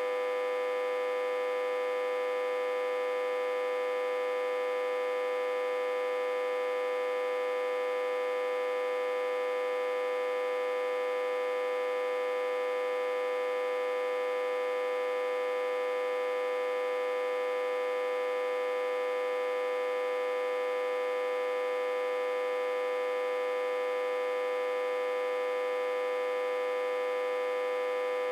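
Autotransformer humming steadily, reverse-connected to a step-down transformer and fed about 60–80 V. A constant, fairly high-pitched hum with a strong main tone and many overtones, unchanging throughout.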